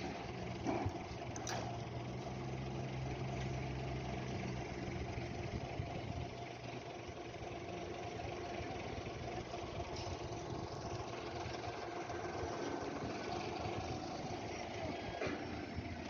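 A machine running with a steady hum. Its low tone drops away about six seconds in, and a few faint clicks come over it.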